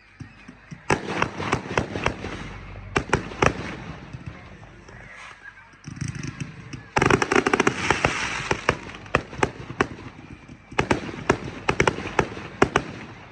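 Aerial fireworks going off in rapid volleys of sharp bangs, with a stretch of dense crackling about seven seconds in and another burst of bangs near the end.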